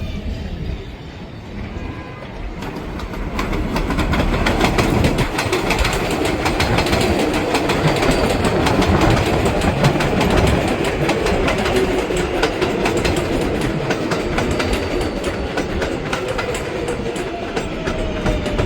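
New York City subway 7 train of R188 cars running through the elevated station, its steel wheels clattering over the rail joints. The sound builds about three seconds in and stays loud, and a falling tone comes in near the end.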